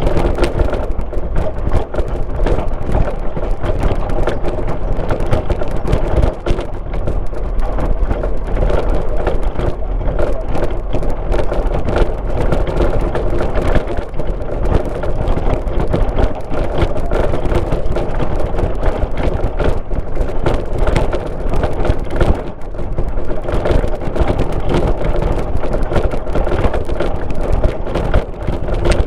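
Car driving steadily, heard from inside the car: continuous engine and tyre noise from the road, dotted with constant small knocks and rattles.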